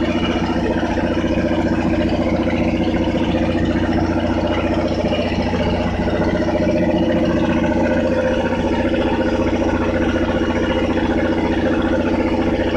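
Truck-mounted water-well drilling rig running steadily under power, its diesel engine and drilling machinery making a constant drone.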